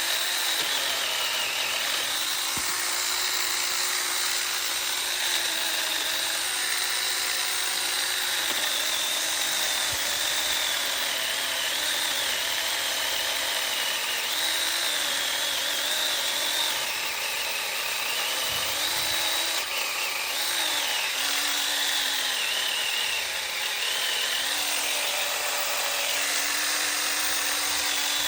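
Chainsaw running and cutting through wood, its pitch dipping and recovering as the chain bites.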